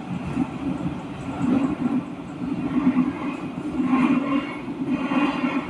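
Breda CQ312 MARTA subway car running between stations, heard from inside the car: a steady rumble of wheels on rail, with some higher noise coming in about four seconds in.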